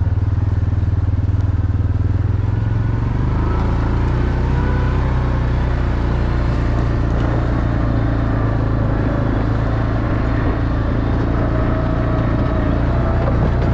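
A motor vehicle engine running steadily under load; its low engine note shifts about three seconds in.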